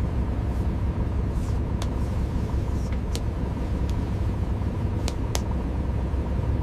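Steady low rumble, like a running engine, with a faint steady hum and a few sharp clicks scattered through it.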